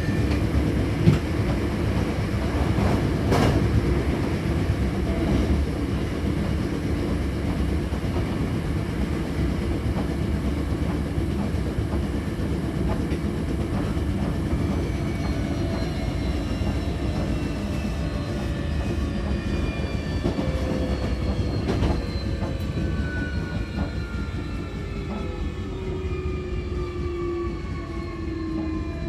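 Hankyu Kyoto Line local electric train running between stations, heard from inside the car: a steady rumble with a few clicks of the wheels over rail joints early on. From about halfway, a whine of several tones falls steadily in pitch as the traction motors wind down with the train braking for the next station.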